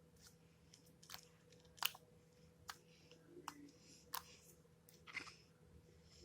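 Slime being worked by hand, giving sharp, irregular pops and crackles about once a second, over a faint steady hum.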